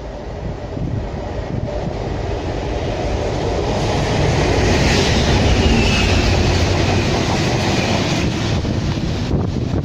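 A train passing, its rumble building to its loudest about halfway through and then easing off a little.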